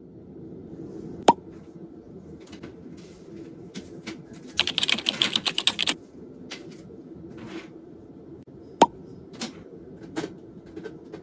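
Typing on a computer keyboard: a quick run of about a dozen keystrokes near the middle, with scattered single key clicks before and after over a low, steady background hum.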